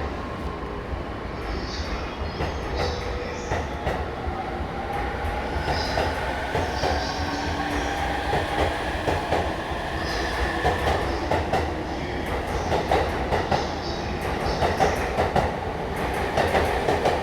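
JR East E233-3000 and E231-1000 commuter train pulling away, its VVVF inverter traction motors whining with a tone that rises as it gathers speed. The wheels clack over rail joints, more often toward the end.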